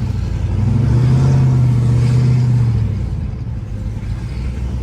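Chevrolet Trailblazer SS's cammed 6.0 L LS2 V8 revving on a first start: the revs climb about half a second in, hold for about two seconds, then drop back to a lumpy idle.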